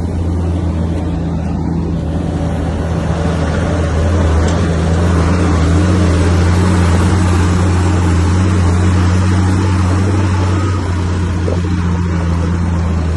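Heavy earthmoving machine's diesel engine running steadily with a deep, even hum. It grows a little louder and harsher from about four seconds in, easing back a couple of seconds before the end, as it works under load.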